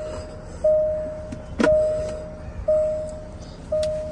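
Range Rover Vogue's cabin warning chime, a single-pitched bong repeating about once a second, each note fading before the next. A sharp click sounds over it about one and a half seconds in.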